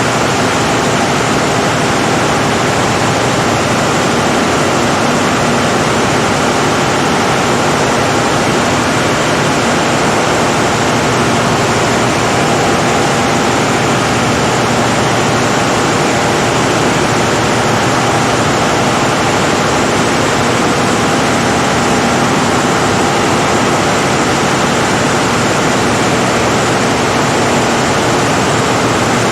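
Caterpillar 3516B V16 diesel generator set running at a steady speed, a loud, even, unchanging engine noise.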